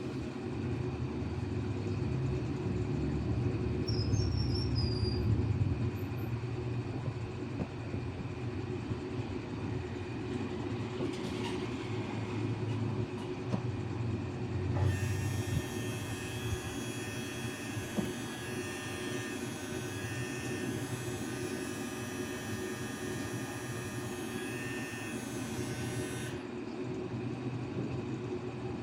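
Electric nail drill running steadily on thick toenails, with a low motor hum. A set of higher tones joins for about ten seconds past the middle.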